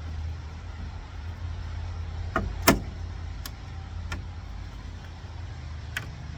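A handful of short, sharp clicks and knocks from hand work on the car's parts, the loudest about two and a half seconds in, over a steady low hum.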